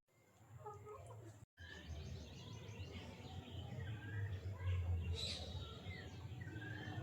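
Birds chirping faintly over a low steady rumble, with a brief dropout about a second and a half in.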